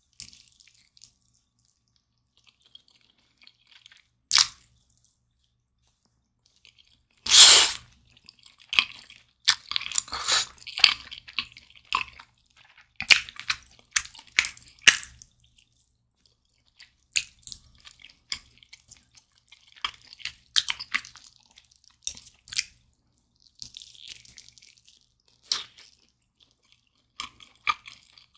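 Close-miked biting and chewing of a sauce-glazed roasted Jamaica chicken leg: a quiet start, a loud bite about seven seconds in, then irregular clusters of chewing and crunching with sharp clicks and pauses between.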